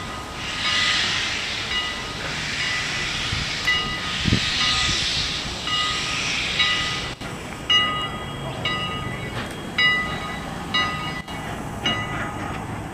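A train passing close by. A hissing noise swells twice, then the wheels clack over rail joints about once a second, each clack with a brief ringing note.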